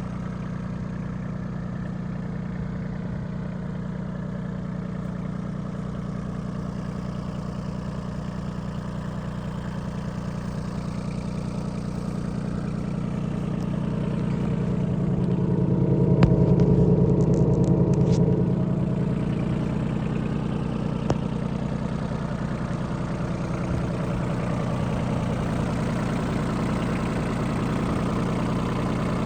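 Yanmar AF16 compact tractor's 16 hp diesel engine running steadily. It grows louder about halfway through, then eases back, with a few light clicks near its loudest point.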